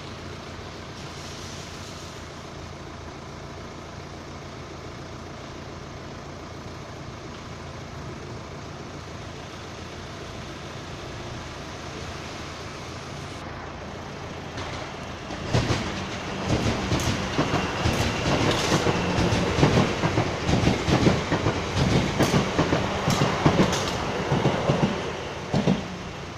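A Class 444 Siemens Desiro electric multiple unit passing over a level crossing, loud for about ten seconds from about sixteen seconds in, its wheels clacking rhythmically over the rail joints. Before it arrives there is only a steady low hum.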